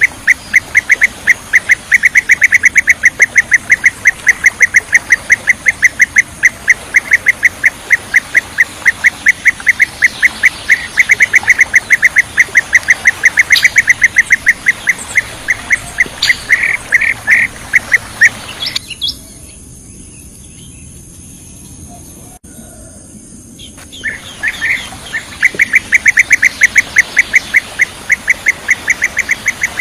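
Bee-eater calls from a bird-luring recording: a fast, even series of short chirping notes, several a second. The notes thin out, break off for about five seconds past the middle, then resume.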